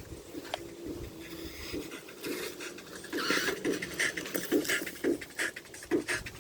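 Rapid, rhythmic panting breaths, about two to four a second, louder in the second half.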